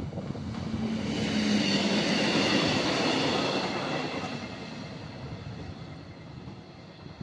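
Passenger railcar passing over a level crossing: the noise of the train on the rails builds to a peak about two to three seconds in, with a steady hum under it, then fades away as the railcar runs off.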